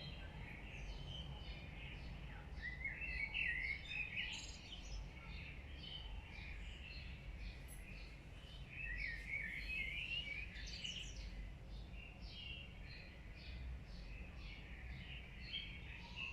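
Several small birds chirping and trilling over a steady low background rumble, with busier bursts of song about three seconds in and again near nine seconds.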